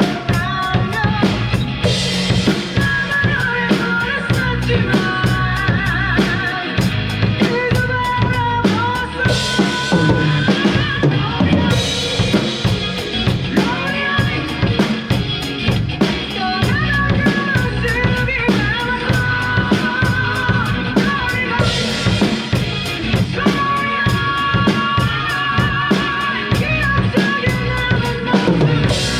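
Drum kit played in time with a recorded song: a steady beat of bass drum, snare and rimshots and cymbals under the track's singing voice and band.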